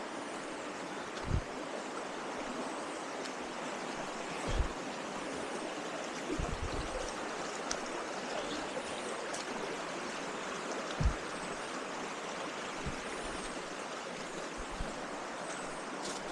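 Steady rushing of a rocky forest stream. A few dull low thumps come through it, about a second in, near the middle and about eleven seconds in.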